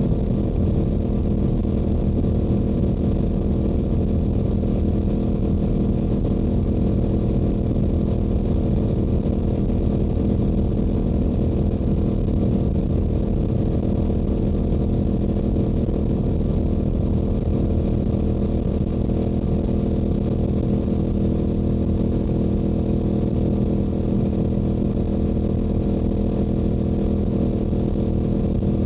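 Stock Yamaha YZF-R7's 689 cc parallel-twin engine and exhaust running steadily at highway cruising speed, with a constant note and no revving, over low wind rumble.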